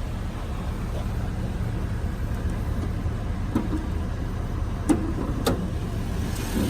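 2004 Chevrolet SSR's 5.3-litre Vortec V8 idling steadily as a low rumble, with three short sharp clicks or knocks in the second half, the loudest about five seconds in.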